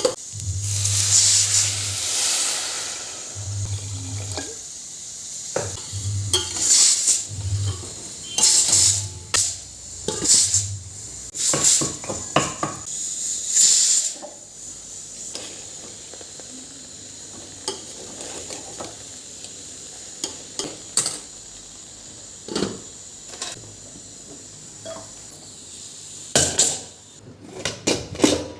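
Kitchen utensils clattering: metal pots, pans and spoons knocking and scraping. The clatter is busy for the first half, thins to occasional clinks, then comes as a quick run of knocks near the end.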